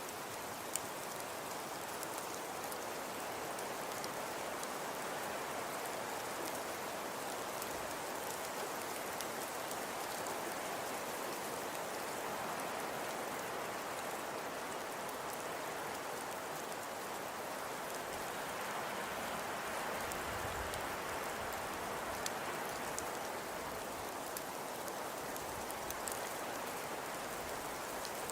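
Fireplace fire crackling: a steady soft hiss with scattered small pops.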